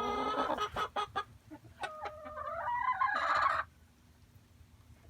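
Chickens clucking and squawking: a run of calls in the first second, then a longer rising call from about two seconds in that stops sharply about three and a half seconds in.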